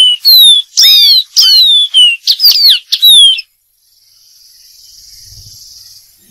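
Dark-throated seedeater singing a quick, loud run of whistled notes, most sliding downward in pitch. The song stops about three and a half seconds in, and a faint steady hiss follows.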